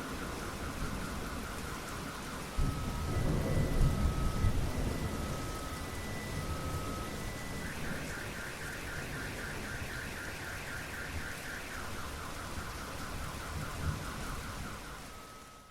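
Steady heavy rain with a rumble of thunder about three seconds in. Over it a car alarm sounds, cycling through its patterns: a rapid warble, then evenly spaced beeps over a steady higher tone, then fast warbling again. All of it fades out at the very end.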